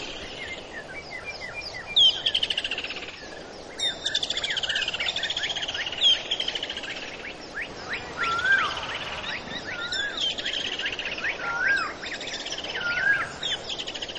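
Birds singing: a rapid descending trill repeated about every two seconds, with shorter wavering whistled notes between the trills.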